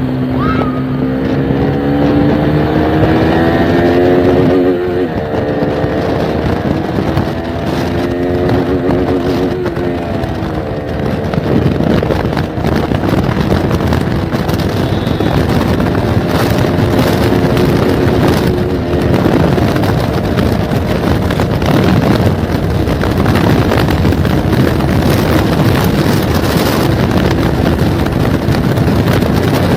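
Motorcycle engine accelerating through the gears: its pitch climbs and drops back at each shift, three or four times in the first ten seconds or so. After that it holds a steady cruising note under heavy wind noise on the microphone.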